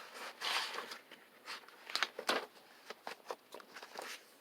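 Faint rustling of a book page being turned by hand, a soft papery swish in the first second followed by a few light handling clicks.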